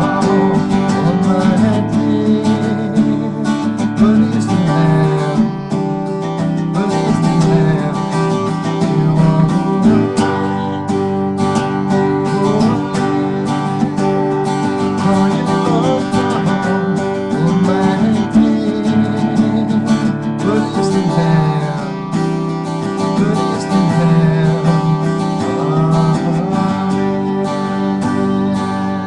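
Music of a strummed acoustic guitar playing steadily through.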